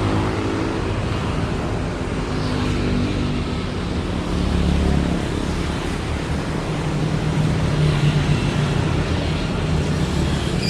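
Steady low rumble of motor-vehicle noise, with an engine note that drifts slowly in pitch.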